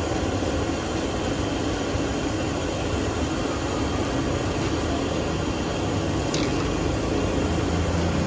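Steady street-side background noise: a low rumble under an even hiss, with one faint falling chirp about six seconds in.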